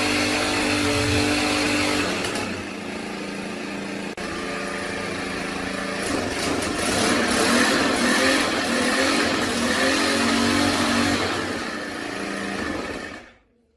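Small four-stroke Rato petrol engine of a 1.5-inch water pump running, its speed changing: higher at first, dropping after about two seconds, rising again for several seconds, then falling back. The sound stops abruptly shortly before the end.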